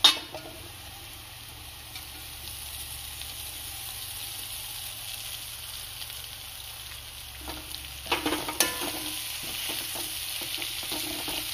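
Shredded cooked chicken sizzling as it is tipped into a hot kadai of fried onions, with a sharp knock at the very start. From about eight seconds in, a steel spoon scrapes and clinks against the pan as the mixture is stirred.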